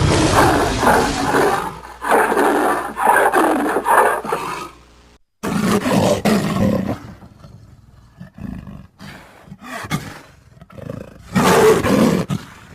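A series of big-cat roars and growls, edited sound-effect clips that follow one after another. Two long roars fill the first five seconds and are cut off abruptly. Shorter roars and softer grunts follow, then one more loud roar near the end.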